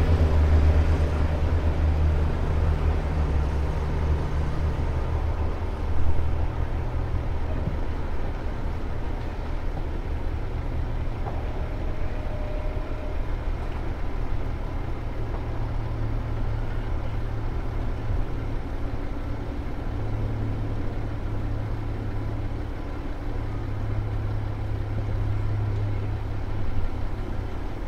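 A train running by, its low rumble easing off over the first four or five seconds, then a steady low hum.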